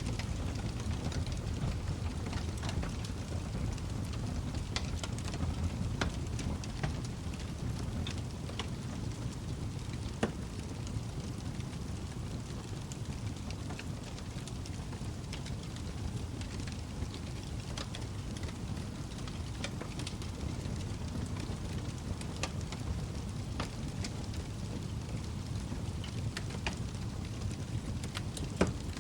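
Log fire burning in a fireplace: a low, steady rush of flame with frequent small crackles and a few louder pops, the sharpest near the end.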